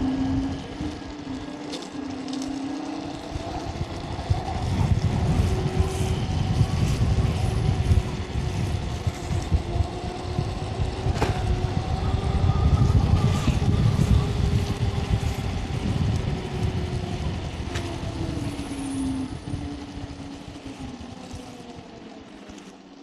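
Electric scooter's motor whining while riding, its pitch rising as it picks up speed and falling as it slows near the end. Wind rumble buffets the microphone through the middle.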